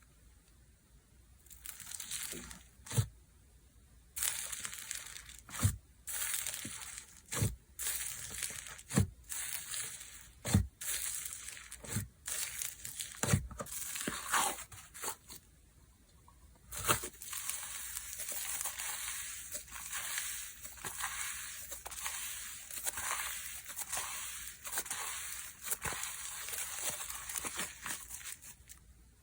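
Slime being squeezed and stretched by hand, with sharp pops about every second or two in the first half and a dense crackling in between and after.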